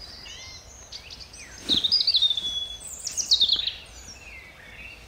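Songbirds singing in winter woodland: high chirps and short trills, with two louder bursts of quick descending notes about two and three seconds in.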